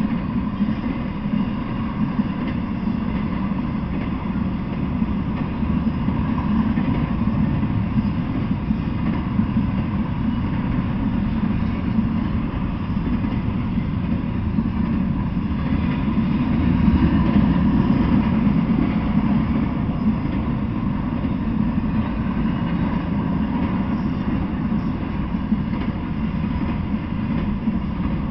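An intermodal freight train's cars rolling past, a steady unbroken rumble of steel wheels on rail.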